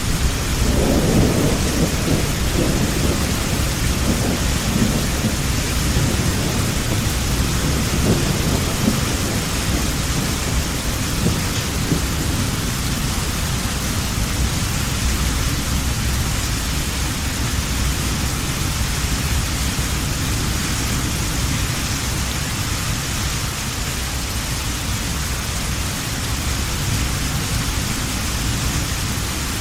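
Heavy rain falling steadily with a low rumble of thunder that dies away over the first ten seconds or so.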